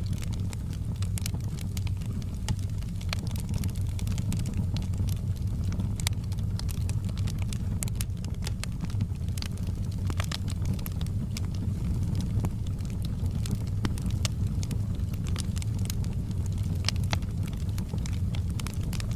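Fire in a fireplace crackling, with scattered irregular pops and snaps over a steady low rumble.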